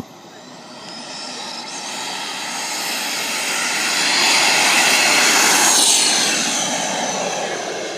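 Radio-controlled jet plane flying past: its high jet whine grows louder over about four seconds, peaks around five to six seconds in, then drops in pitch and fades as it goes by.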